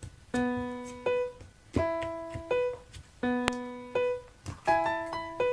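Background music: a short, bright keyboard phrase in a piano-like tone, each group of notes struck and fading, repeated about every one and a half seconds.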